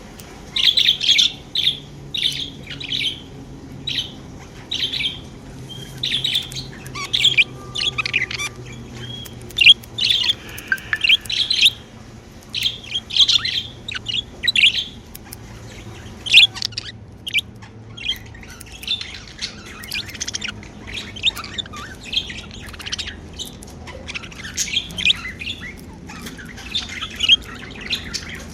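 Pet budgerigars chirping and warbling, a rapid run of short high chirps with brief pauses between them.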